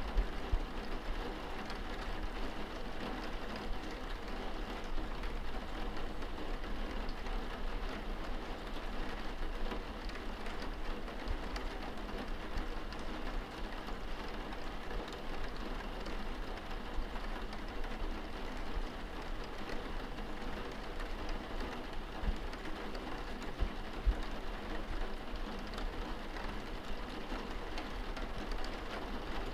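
Steady rain pattering on window glass, heard from indoors, with scattered drop ticks and a low rumble underneath.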